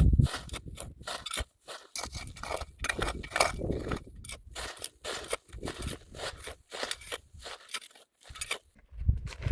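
Irregular scraping and crackling, a quick run of short rustles and clicks with a few brief pauses.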